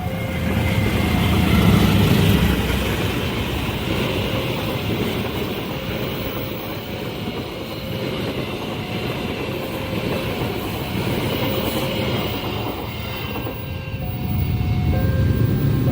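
A long train passing close by at speed: a steady rumble and clatter of steel wheels on the rails, loudest about two seconds in.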